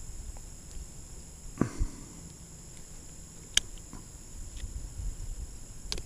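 Two dull knocks about a second and a half in, then sharp clicks around three and a half and six seconds in: a bass being landed and handled in a kayak with rod and gear. A steady high insect drone runs underneath.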